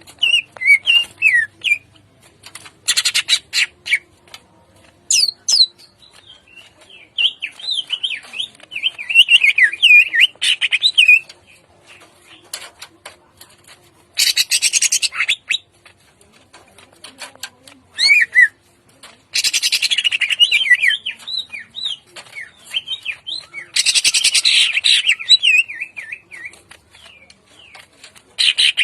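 Greater green leafbird (cucak ijo) singing: quick runs of whistled, warbling phrases alternating with harsh, noisy bursts of about a second and a half, four times over.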